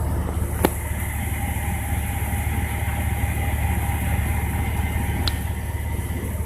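Heavy rain with strong wind: a steady hiss of downpour over a deep rumble of wind buffeting the microphone. A sharp click sounds shortly after the start and another near the end.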